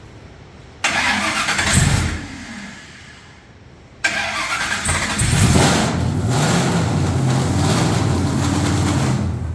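LS V8 engine being started for the first time: it fires about a second in, runs briefly and dies, then fires again about four seconds in and runs steadily and loud before shutting off near the end.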